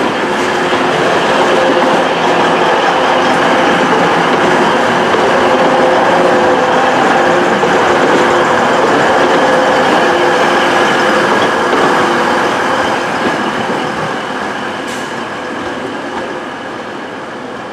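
TransPennine Express Class 185 diesel multiple unit moving past at close range, with diesel engine drone and wheel-on-rail noise. It is loudest through the middle and fades away over the last few seconds.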